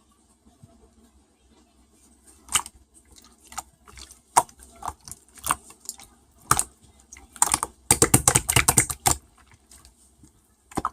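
Slime being pressed and squished by hand, giving sharp clicks and pops: single ones at first, then a fast run of clicks a little past halfway, and one more near the end.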